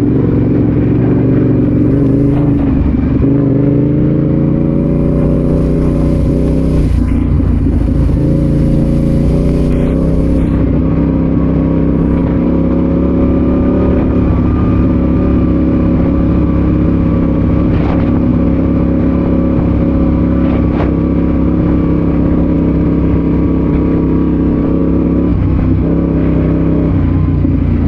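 Adventure motorcycle engine running under way at a steady pace, its pitch rising slightly over the first few seconds and then holding level.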